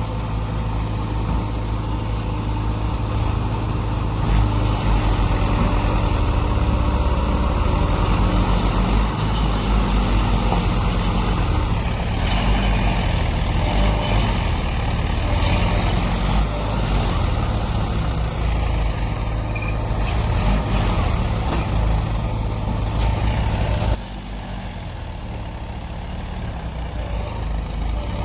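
Diesel engine of heavy earthmoving machinery running steadily under load, dropping abruptly to a lower, quieter level about 24 seconds in.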